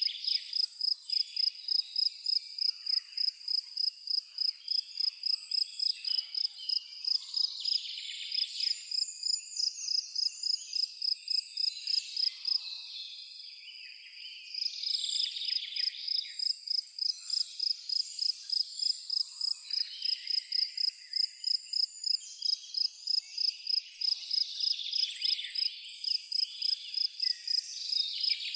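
A cricket chirping in a steady rhythm, about three chirps a second, stopping for a couple of seconds near the middle, with songbirds singing and calling throughout.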